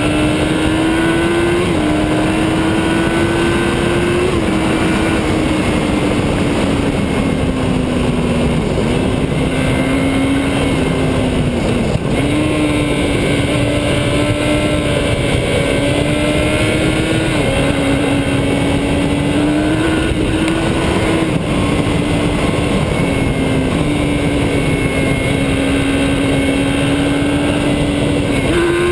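Motorcycle engine running at a steady cruising speed, its note stepping slightly up and down every few seconds with the throttle, under a heavy rush of wind.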